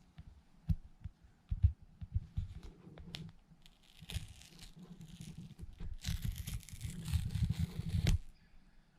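Packaging being handled and torn open: scattered knocks and taps, then two stretches of tearing and rustling, the second and longer one ending abruptly a little past eight seconds in.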